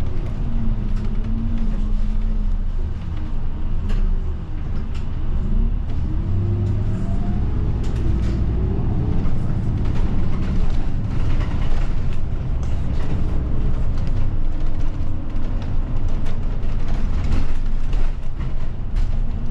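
Route bus heard from inside the cabin: its engine and drivetrain running with a steady low rumble, the engine note gliding up and down as the bus changes speed, with occasional rattles and knocks.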